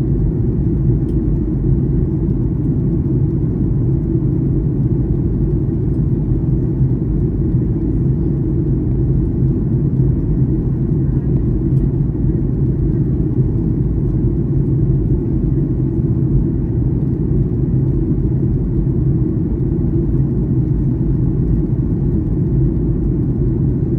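Steady cabin rumble of a Boeing 737-800 in flight, heard from inside the cabin: the drone of its CFM56 turbofans blended with airflow noise, unchanging throughout.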